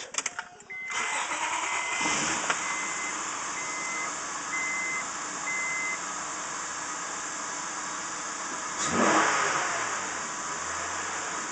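The 1999 Acura CL 3.0's V6 engine starts about a second in and keeps running steadily, idling high, which the owner blames on the idle air control valve he did not clean. An evenly spaced warning chime beeps for the first several seconds. About nine seconds in, a brief, louder sound falls steeply in pitch.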